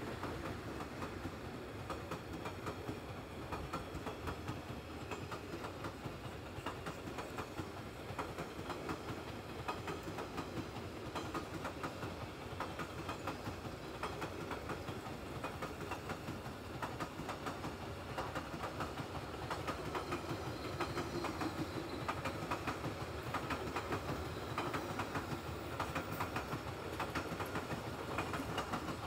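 Express train's passenger coaches running steadily past, wheels clattering over the rail joints in a continuous rumble of quick clicks.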